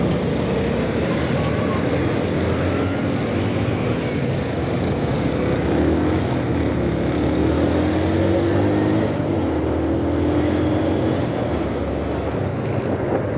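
Motorcycle engine running on the move through street traffic, with road and wind noise. Its note rises a few times through the middle as it speeds up.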